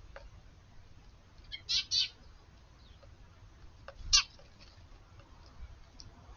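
Eurasian tree sparrows chirping: a quick pair of chirps about two seconds in, then a single chirp about four seconds in.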